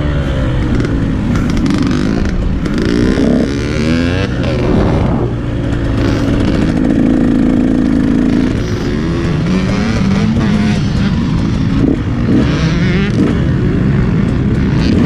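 KTM 150 SX single-cylinder two-stroke dirt bike engine revving up and down under riding, its pitch rising and falling repeatedly through throttle and gear changes.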